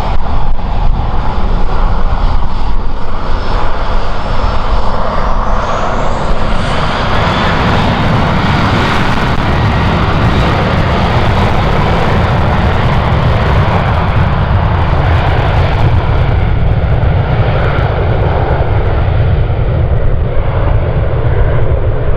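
Airliner's engines running loud and steady on a takeoff, with a thin whine rising in pitch about six seconds in.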